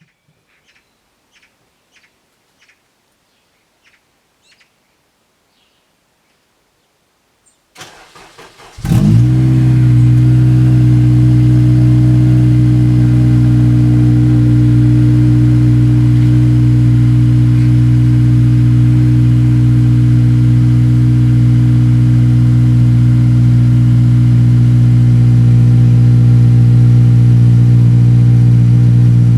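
Honda Civic Type R (FN2) four-cylinder engine cold-started through a TDI North 3-inch exhaust: after a few faint clicks, a short crank about eight seconds in, then it catches and settles into a loud, steady cold idle.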